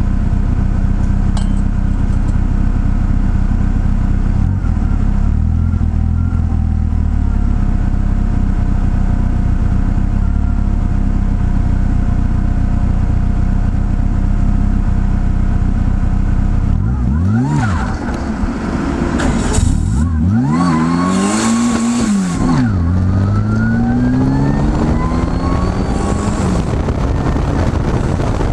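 Twincharged four-cylinder engine of a Toyota MR2 AW11 idling steadily for a long spell. It is then revved up and down a few times and launched about three-quarters of the way through, its pitch climbing through first gear with an upshift near the end.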